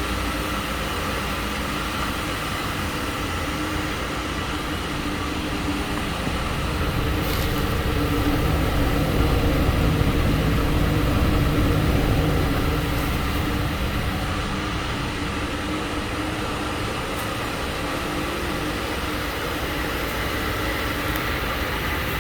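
2012 Chrysler 200's 2.4-litre four-cylinder engine running steadily at idle. It swells louder for a few seconds midway, then settles back to idle.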